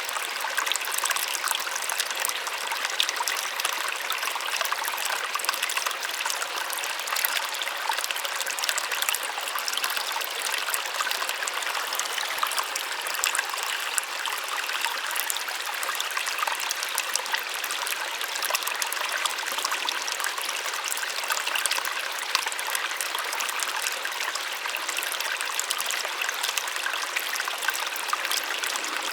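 Small waterfall splashing steadily, a bright even rush of falling water with fine splashes and little low rumble.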